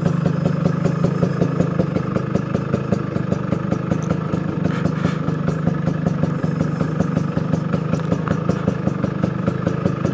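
Two-stroke motorcycle engine idling steadily with an even, fast firing pulse as the bike rolls slowly down a steep hill on both brakes.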